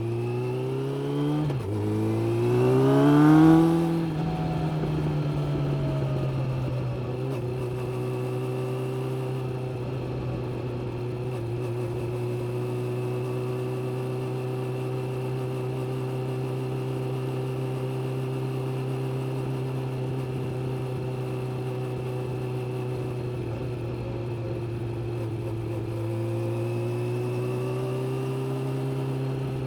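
Suzuki GSX600F inline-four motorcycle engine accelerating. The revs climb, dip briefly at a gear change, then climb sharply to the loudest point about three and a half seconds in. The engine then settles into a steady cruising note, rising a little again near the end.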